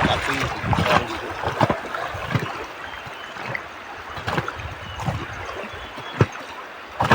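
River water rushing and splashing around a raft, with irregular sharp splashes through a steady rush.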